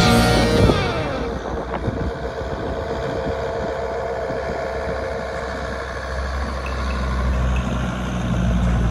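Jeep Grand Cherokee WJ engine running as the 4x4 drives slowly over snow, a steady low hum that grows louder near the end as it draws close.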